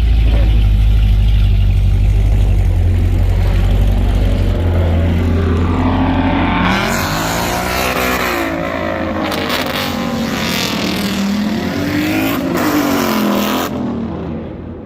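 Car engine running with a deep, steady rumble, then revving up and down several times from about six seconds in.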